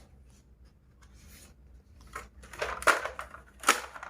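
Handling of a plastic toy gun and its packaging: a quiet stretch, then a cluster of short clicks and rustles in the second half, two of them sharper and louder.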